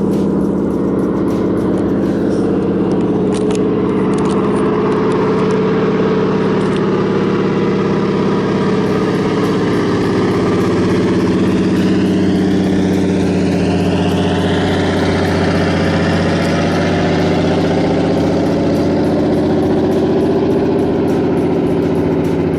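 Float plane's propeller engine running steadily as the plane comes in to land, with a slowly sweeping, shifting tone over it as it passes.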